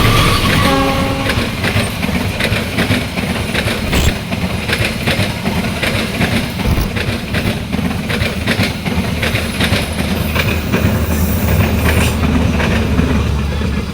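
Passenger train passing close by: a short horn blast near the start, then the rumble of the cars with rhythmic clacking of wheels over rail joints.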